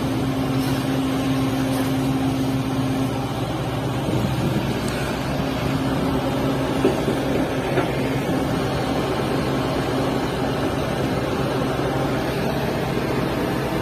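SANY 140 excavator's diesel engine running steadily, with a constant low hum; a higher steady tone in it fades out about three seconds in.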